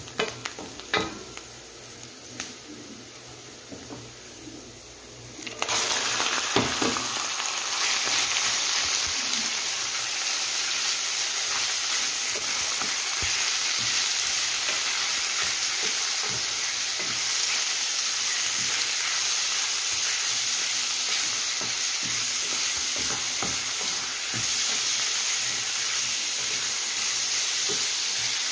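Onion and garlic frying quietly in a stainless steel pan while a wooden spoon stirs and knocks against it; about five seconds in, diced raw chicken goes into the hot pan and a loud, steady sizzle starts and holds, with the spoon stirring through it.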